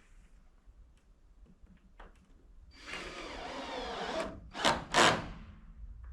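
A power drill runs for about a second and a half, followed by two short, loud bursts.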